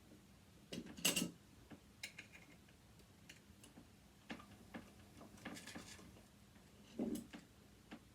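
A screwdriver tip clicking and scraping against a screw in a sewing machine's metal parts: scattered light clicks and taps, the loudest about a second in and near seven seconds. The bit is failing to grip the stripped screw head.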